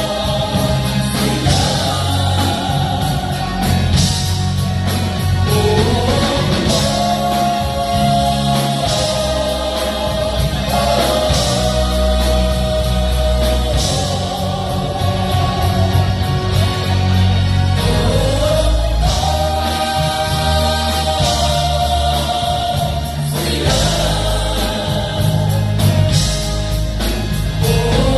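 Gospel choir singing with band accompaniment: long held notes, each new phrase swooping up into pitch about every five or six seconds, over a steady bass line and drums.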